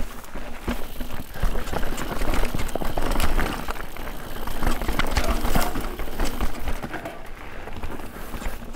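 Mountain bike riding down a rough trail: tyres running over dirt and rock with a steady stream of rattles and knocks from the bike, over a low wind rumble on the microphone.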